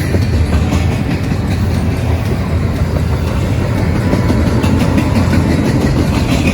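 Train passing on the rails: a loud, steady rumble of wheels and cars with light clattering.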